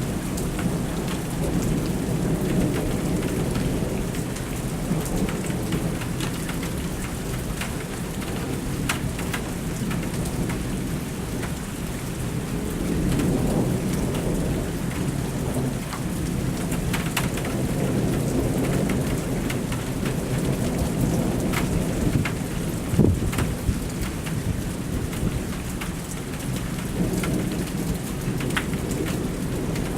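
Thunderstorm: heavy rain falling steadily, with thunder rumbling low underneath in slow swells and one louder, sharper crack about two-thirds of the way through.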